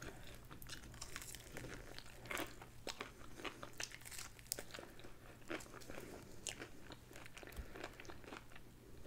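Faint, close-up biting and chewing of a crispy fried chicken wing: irregular crunches and crackles of the breaded skin.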